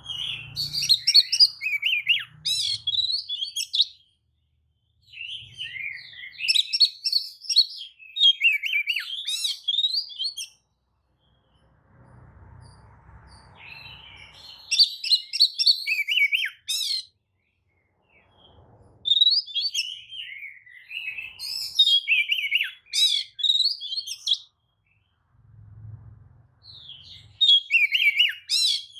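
Oriental magpie-robin singing in display, with its tail fanned. Its song is a loud, varied run of rapid whistles and chirps that comes in bursts of a few seconds, separated by short pauses.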